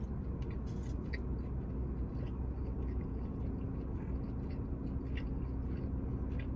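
Close-up chewing of a crispy breaded fried chicken tender, with scattered small crunches, over a steady low hum.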